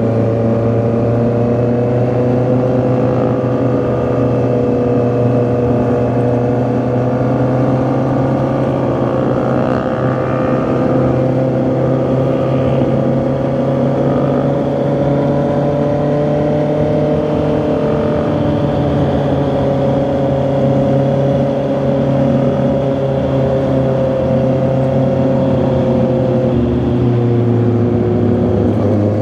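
Honda CB650R's inline-four engine and exhaust running at a steady cruise, its note drifting gently up and down with the throttle and dipping briefly near the end.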